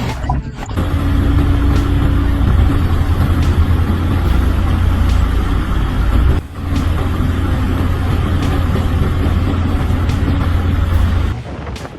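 Road vehicle noise: a steady low engine rumble with road noise over it, breaking off briefly about halfway and dropping away near the end.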